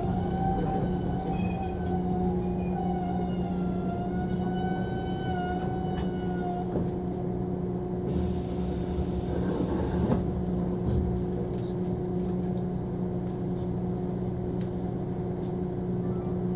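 Running noise of a JR 185 series electric train heard from inside the car: a steady hum from motors and wheels on the rails. A wavering whine rises over it for the first several seconds, and a burst of hiss comes about eight seconds in and lasts around two seconds.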